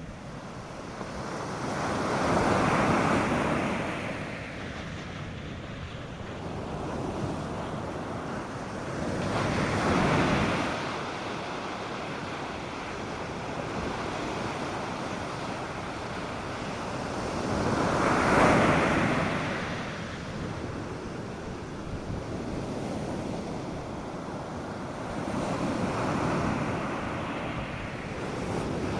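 North Sea surf breaking on a sandy beach: four waves break and wash in, about one every seven or eight seconds, each swelling up out of a steady hiss of surf and dying back. Light wind runs under it.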